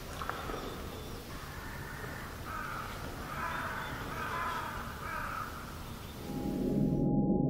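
A bird calling repeatedly, a series of calls over a steady low background. About six seconds in, a low droning musical tone swells in and grows louder.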